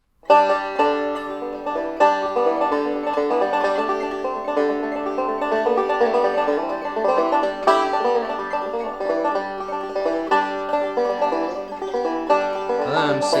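Banjo picking a folk tune as a solo intro, starting suddenly out of silence, recorded through a single ribbon microphone. A voice starts singing near the end.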